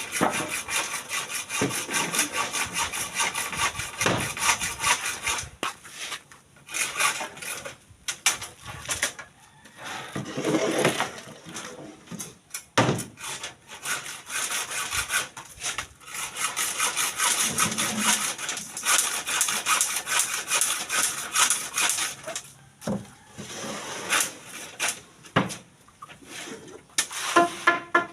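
Hand sawing: fast, even back-and-forth saw strokes in several runs, with short pauses between them.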